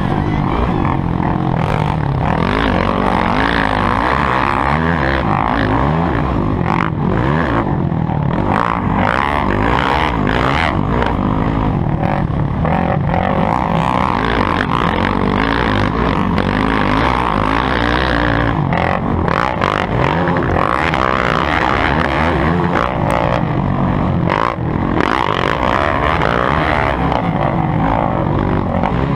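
Motocross bike engines running loud and continuously, the pitch rising and falling as the riders rev on and off the throttle.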